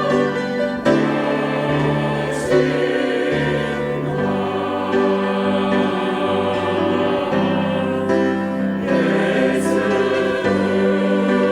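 Church choir singing an anthem in Korean, holding long full chords.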